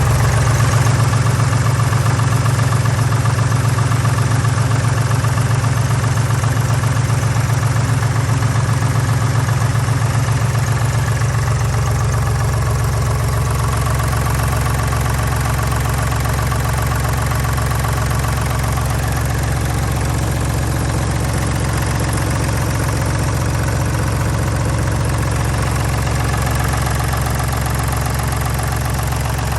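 Deutz D5206 tractor's air-cooled three-cylinder diesel engine running steadily at idle, its note shifting slightly about ten seconds in.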